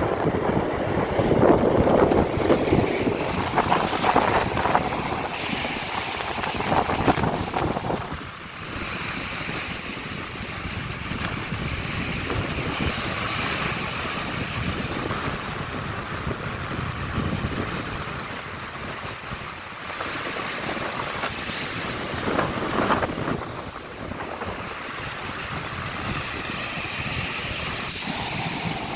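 Sea waves breaking and washing up a sandy beach in strong wind, with wind buffeting the microphone. The surf is loudest with repeated surges over the first several seconds, then steadier, with another surge near the end.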